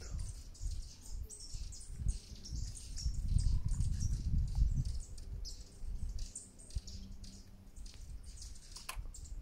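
Short, high bird chirps repeat throughout, over a low rumble on the microphone that is loudest from about two to five seconds in. There is a single sharp click near the end.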